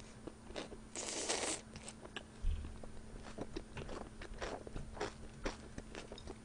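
Close-miked chewing of a mouthful of smoked pork belly wrapped in pickled radish, a string of short crunches and clicks with a longer crunch about a second in. A dull thump comes about two and a half seconds in.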